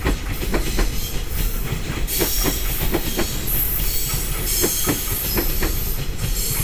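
Freight train wagons rolling past, their wheels clacking over the rail joints in quick, uneven pairs over a steady rumble, with a faint high wheel squeal that comes and goes.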